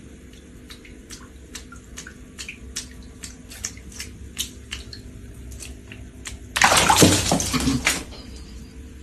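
Water: light dripping or lapping ticks, about three a second over a low hum, then a loud rush of splashing or running water for about a second and a half near the end.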